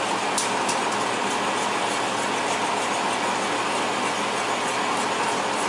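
Marsala sauce thickened with a flour slurry boiling hard in a pan, a steady bubbling hiss with a couple of small pops about half a second in.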